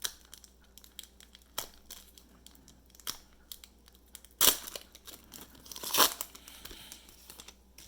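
Trading-card pack wrapper being torn open and crinkled, with scattered small crackles and two louder rips in the second half.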